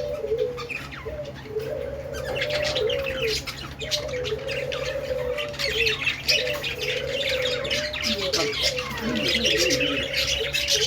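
A flock of budgerigars chattering with quick high chirps and warbles throughout. A lower, cooing warble about a second long repeats roughly every two seconds.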